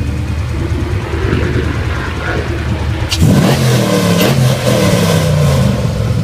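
Dodge Charger SRT8's 392 stroker Hemi V8 idling, then revved hard about three seconds in, its pitch rising and falling several times through the exhaust.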